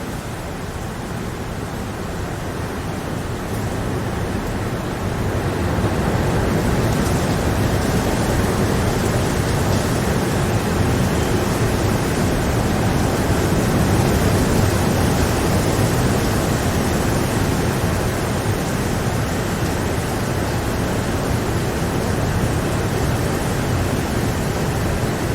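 Steady rain, an even wash of noise with no separate drops standing out, growing louder a few seconds in and then holding.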